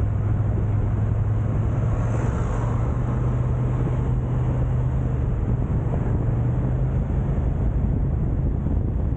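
Car engine hum and road noise while driving: a steady low drone whose pitch rises slightly a few seconds in and drops back near the end.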